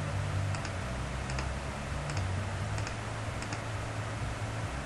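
Light clicking on a computer's mouse or keys, in small pairs of clicks about once a second, over a low steady hum.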